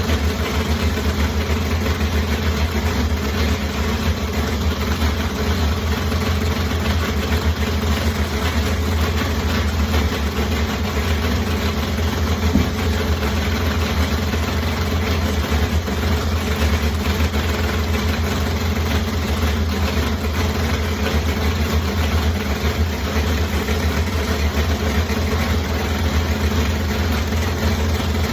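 Supercharged car engine idling steadily, with a deep low rumble and no revving.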